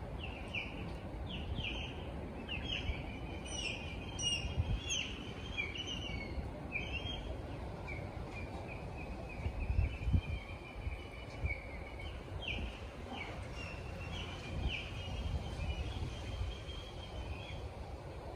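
Birds calling in short repeated notes and trills, over an uneven low rumble of wind on the microphone that swells about halfway through.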